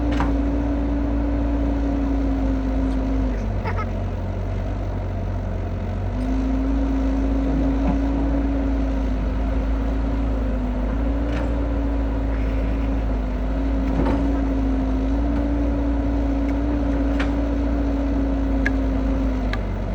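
Kubota DC70 rice combine harvester's diesel engine running steadily under working load. Its hum changes for about three seconds near the start, then settles back to the same steady note.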